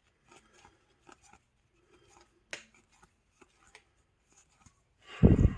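A foil trading-card pack being opened and the cards handled: faint scattered crinkles and clicks, with one sharper click about halfway. A short, loud, low sound comes near the end.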